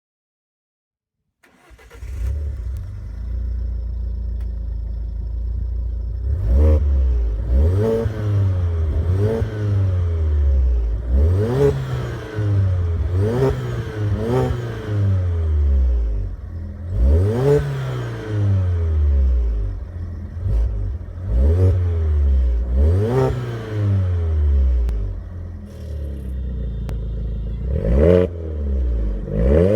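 Alfa Romeo Giulietta QV's turbocharged four-cylinder engine, breathing through an aftermarket turbo-back exhaust with valves, starts about a second and a half in and idles for a few seconds. It is then revved about a dozen times, each rev rising sharply and dropping back to idle.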